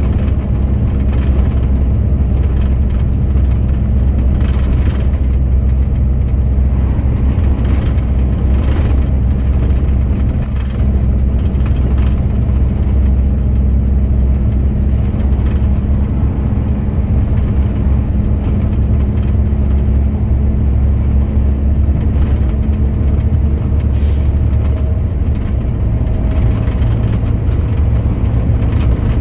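Truck engine running steadily with tyre and road noise while driving, a continuous low drone.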